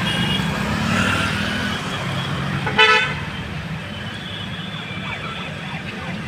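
Road traffic with a steady low rumble, and one short vehicle horn toot about three seconds in.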